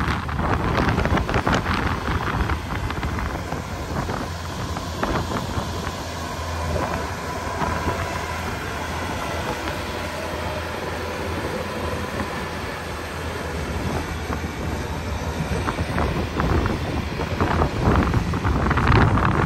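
Tractor engine running steadily while pushing snow, under strong gusty wind buffeting the microphone; the gusts are heaviest at the start and near the end.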